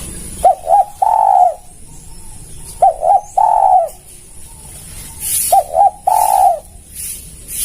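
Spotted dove cooing three times, a couple of seconds apart, each call two short notes followed by one longer coo.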